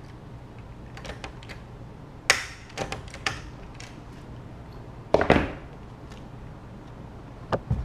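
Hand rivet tool setting a rivet through a washer and picture wire on an acrylic frame: a string of sharp clicks and knocks, the loudest about two seconds in and about five seconds in.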